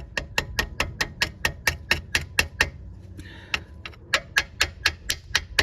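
Rapid light metal-on-metal taps, about four or five a second, as a tool head chips thick rust scale off a car's wheel hub. A brief pause just past halfway, then a second run of taps.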